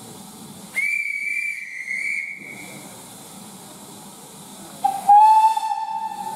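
Steam locomotive whistles over steam hiss: a high whistle about a second in that lasts about two seconds, then a louder, lower whistle that starts about five seconds in and is held.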